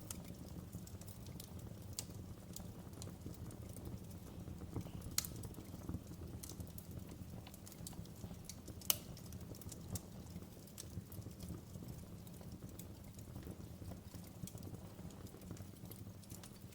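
Wood fire crackling in a fireplace: irregular sharp snaps and pops over a low steady rumble, with two louder pops about five and nine seconds in.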